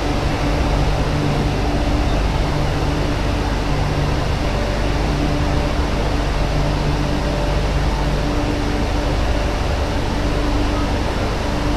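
MTR Q-train electric multiple unit running between stations: steady rolling and running noise with a low electric hum, one hum tone fading out about two-thirds of the way through.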